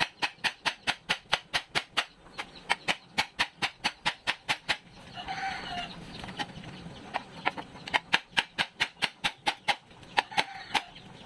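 Rapid, regular hammer blows on sheet metal, about four a second, in two runs, with a rooster crowing once in the gap between them.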